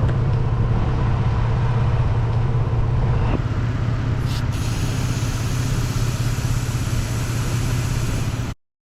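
Air hissing steadily out of a truck tire as it is let down for driving on sand, over a low steady hum. It stops abruptly near the end.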